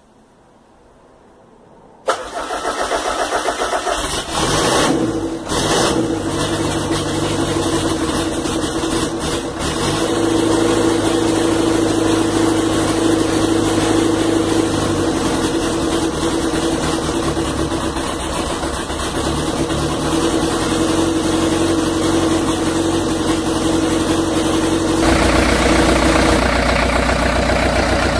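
Rebuilt Land Rover Series 3 2.25-litre four-cylinder diesel engine starting suddenly about two seconds in, then running steadily; the sound shifts and gets heavier near the end.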